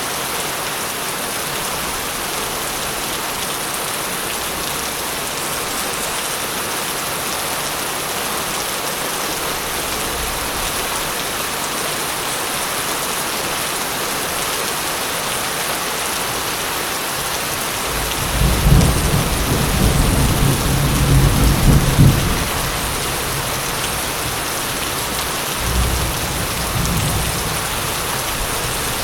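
Steady heavy rain with rolls of thunder: a loud deep rumble about two-thirds of the way in, lasting a few seconds, and a weaker one near the end.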